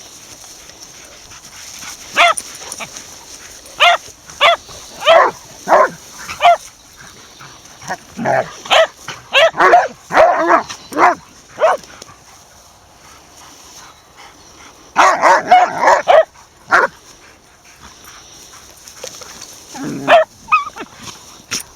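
Dogs barking in repeated bouts of short barks, sometimes overlapping in dense runs, with quieter gaps between.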